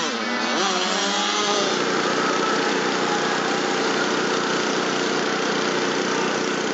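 Motocross bike engines running hard: the engine note rises and falls over the first second and a half, then holds steady.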